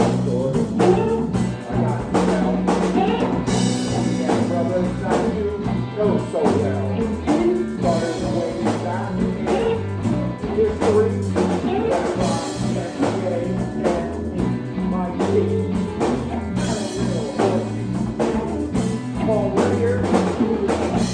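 Live band jamming: drum kit keeping a steady beat under a walking bass line, with a lead voice or instrument on top, in a blues-rock groove.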